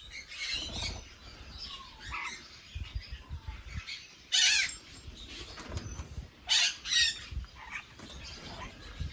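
Parrots calling in short chirps and squawks, the loudest a little past four seconds and twice around seven seconds, over low knocks and rustling as the birds move about.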